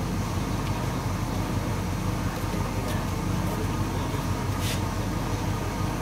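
1976 Oldsmobile 88's 455 cubic-inch V8 idling steadily, running on freshly replaced vacuum lines.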